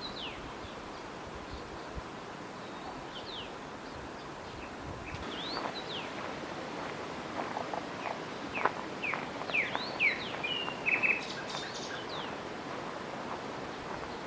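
Songbirds calling over a steady outdoor hiss: short whistled notes, many sweeping sharply down in pitch, coming sparsely at first and then thick and overlapping through the middle, with a brief buzzy trill about eleven seconds in.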